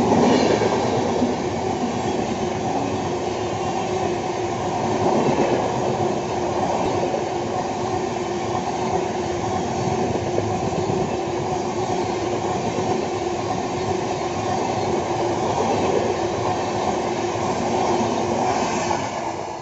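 Passenger express train's air-conditioned coaches rolling past close by at speed: a steady rush of wheels on rail, dropping away at the very end as the last coach clears.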